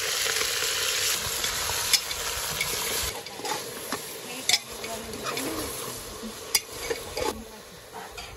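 Chicken pieces frying in hot oil in an aluminium pressure cooker pot, sizzling steadily, loudest in the first few seconds. A metal ladle stirs the meat, clicking and scraping against the pot a few times.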